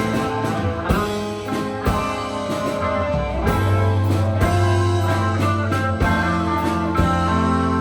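Live rock band playing an instrumental passage: guitar lines ring over sustained bass notes, with occasional drum hits.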